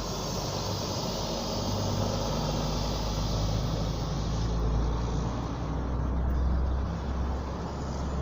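Steady low rumble of a running vehicle with road noise, swelling a little about five to seven seconds in.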